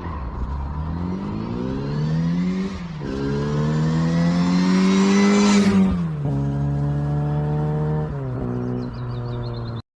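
Rebuilt 1380 cc A-series Classic Mini engine running and being revved. The revs climb, dip briefly, then climb higher, drop back around six seconds in, and hold at a steadier lower speed with a further step down. The sound cuts off abruptly just before the end.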